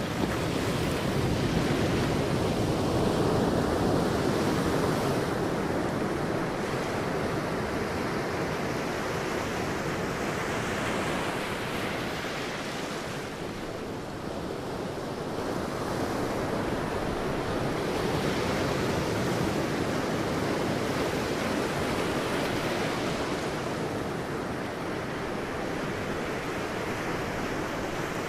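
Sea waves breaking on a beach: a continuous rush of surf that swells and eases slowly, with a lull about halfway through.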